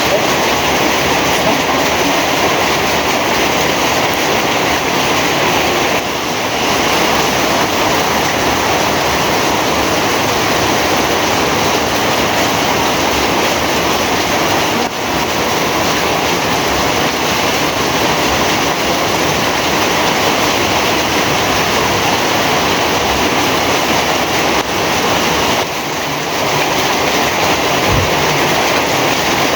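Heavy rain pouring steadily, a loud, dense, even hiss.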